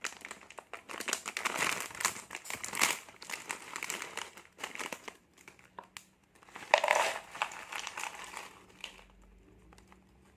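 Plastic snack packet crinkling and rustling as it is handled and opened by hand, with a louder rustle about two-thirds of the way through and quieter near the end.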